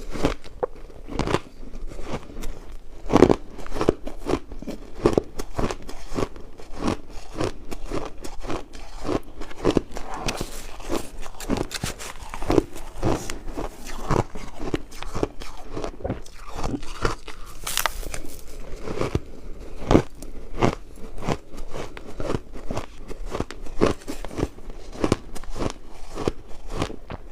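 Ice being bitten and chewed close to the microphone: a continuous run of sharp, crisp crunches, about two a second.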